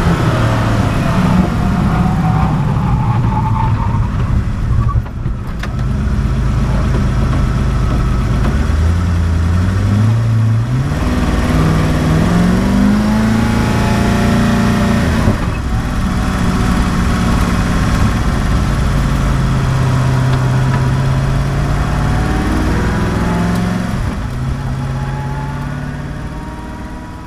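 Koenigsegg One:1's twin-turbo V8 running hard: its pitch falls at first, then climbs in several steps through gear changes and holds high before dropping away and fading out near the end.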